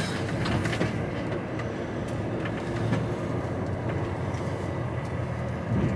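HGV lorry's diesel engine running steadily on the move, heard from inside the cab as an even low rumble with road noise.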